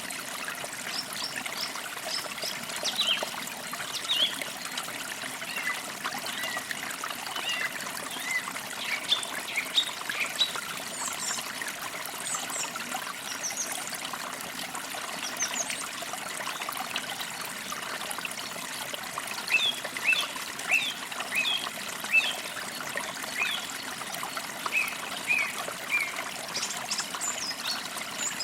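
A forest creek trickling and babbling steadily, with small birds chirping and calling over it in short, high notes, busiest around the middle and again near the end.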